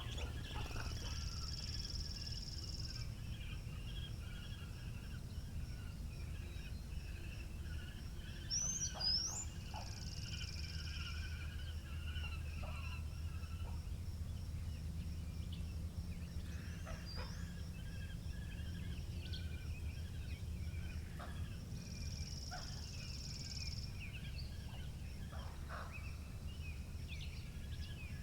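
Countryside ambience: small birds chirping and calling on and off, with a thin high trill that swells up three times, over a steady low rumble of wind.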